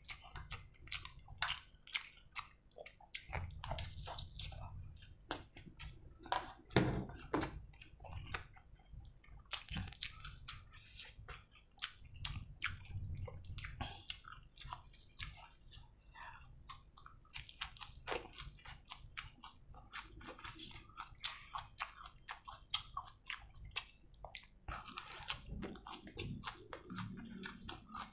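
A person chewing food close to the microphone, with many small wet clicks and smacks of the mouth throughout.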